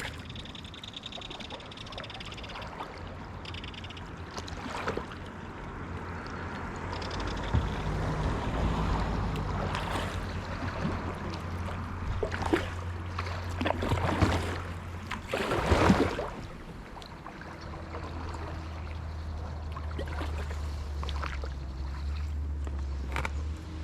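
Kayak paddle strokes splashing and water gurgling along the hull, with several louder splashy strokes, the loudest about two-thirds of the way through. A steady low rumble runs underneath and briefly drops out after the loudest splash.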